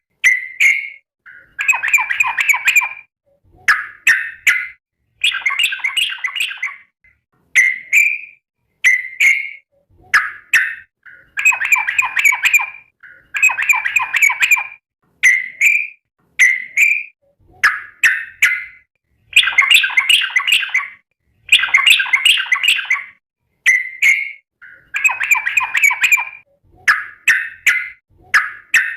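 Yellow-vented bulbul (trucukan) giving its rapid companion-calling chatter, over and over: short clipped notes alternating with bubbling phrases about a second long, every one to two seconds.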